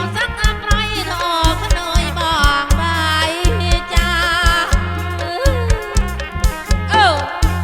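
Live kantrum folk music played loud through a PA sound system: a wavering, vibrato-laden melody bending in pitch over a steady drum-kit and bass beat, with a sharp downward glide near the end.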